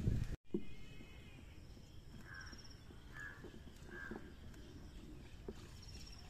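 Faint bird calls outdoors: three short calls less than a second apart, with a few softer high chirps, over a low background hiss. The sound drops out for an instant just after the start.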